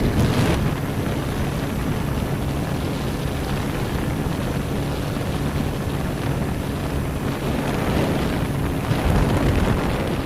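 Motorcycle riding along a road: wind rushing over the microphone, with the engine's steady hum underneath.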